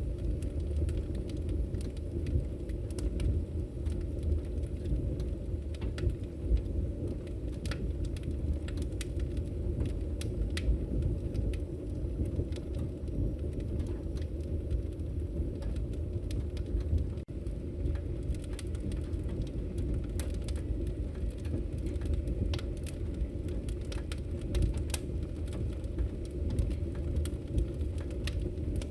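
Wood fire burning in a fireplace: a steady low rumble of flames with frequent sharp pops and crackles from the burning logs.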